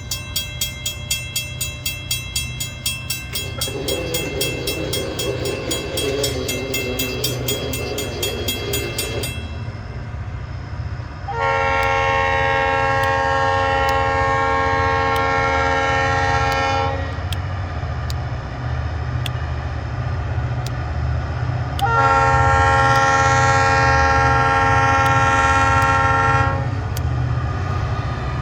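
Diesel freight locomotive on the DeQueen & Eastern Railroad approaching with a steady low engine rumble, a fast even ticking over it for the first nine seconds. Its air horn then sounds two long blasts, the first about eleven seconds in and lasting about five seconds, the second about ten seconds later, the loudest sounds here.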